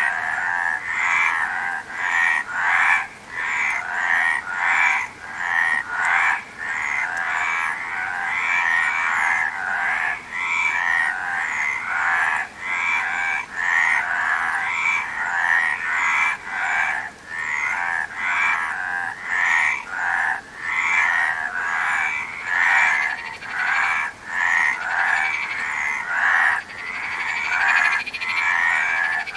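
Many frogs calling at once, a dense chorus of overlapping pulsed croaks repeating several times a second.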